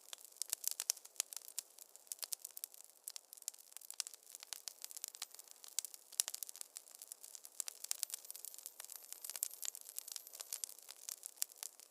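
Wood fire in a fireplace crackling: dense, irregular snaps and pops over a faint hiss.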